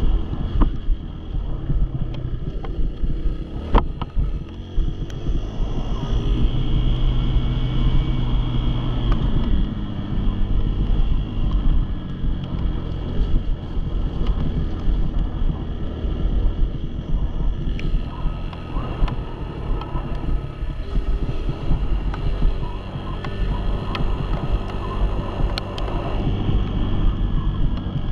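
Small dirt bike engine running as it is ridden, its pitch rising and falling with the throttle, with heavy wind noise buffeting the microphone.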